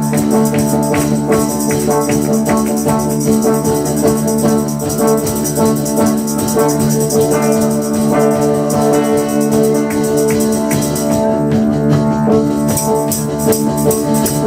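Live praise band playing the instrumental introduction to a worship song: held chords over a steady rattling hand-percussion rhythm, with no singing yet.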